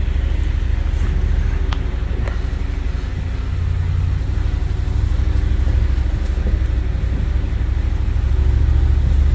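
Pickup truck driving along a bumpy woodland trail, heard from its open bed: a steady low engine and road rumble with a few short knocks and rattles.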